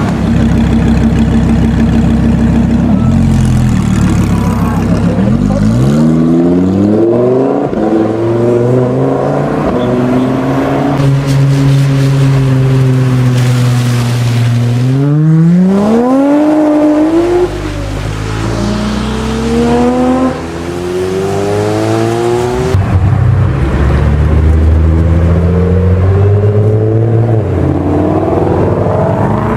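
High-performance sports car engines revving and accelerating hard. The engine pitch climbs repeatedly and drops back at each gear change, with stretches of steady running and lower rumbling between.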